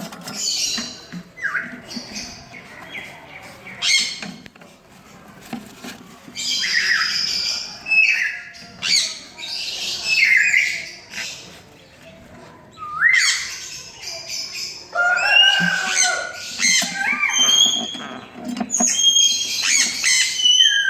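Sun conure parrots squawking, a run of harsh, high calls mixed with short chirps that slide in pitch, getting busier in the second half.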